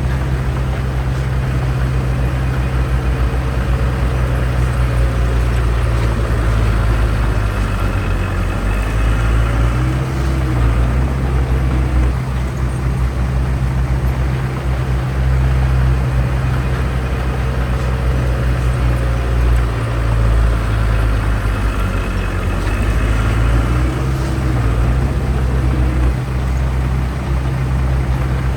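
Heavy construction equipment's diesel engine running steadily at work, its pitch rising and falling briefly twice, about a third of the way in and again near the end.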